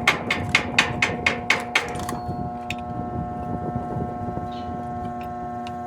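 Hammer striking metal in a quick, even run of about eight blows, some four a second, stopping about two seconds in. A steady hum with several tones carries on underneath throughout.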